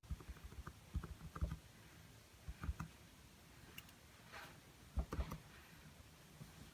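Light tapping and knocking from painting tools on the work surface, in three short clusters of quick taps, with a brief soft scrape in between.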